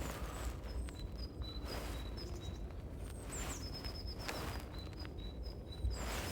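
Several small birds chirping, a string of short high notes and quick downward slurs overlapping one another, over a steady low background rumble.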